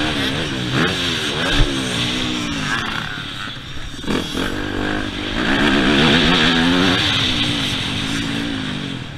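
Yamaha YZ250F motocross bike's single-cylinder four-stroke engine revving up and down under riding, its pitch climbing and dropping repeatedly. A short thump about one and a half seconds in; the engine eases off around four seconds, then revs up hard again and drops away near the end.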